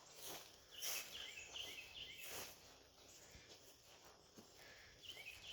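Quiet outdoor ambience with faint, short, high chirps, typical of small birds or insects, in a couple of clusters, and a few soft rustles.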